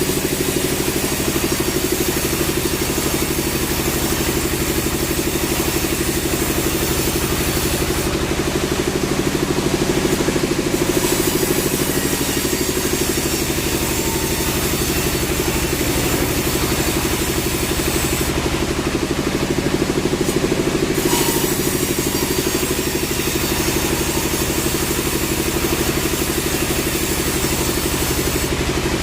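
Sawmill machinery running steadily: an engine drone with a high hissing noise over it that drops out briefly twice.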